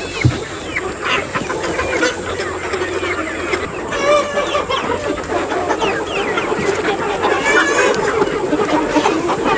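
A flock of chickens calling, with many short calls overlapping continuously. There is one brief low thump just after the start.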